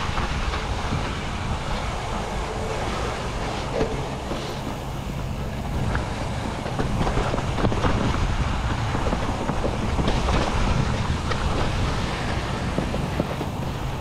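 Mountain bike riding over rough trail: a steady rumble of wind on the microphone with constant rattling and clatter from the bike.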